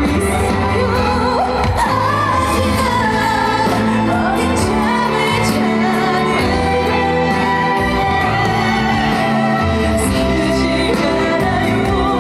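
A female trot singer singing live over a loud backing track, her voice wavering with vibrato above a steady bass line.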